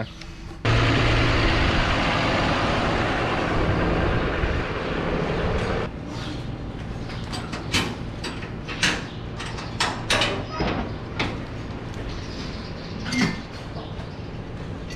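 Vehicle engine running, loud for the first five seconds or so, then quieter, with a string of metal clanks and knocks over it.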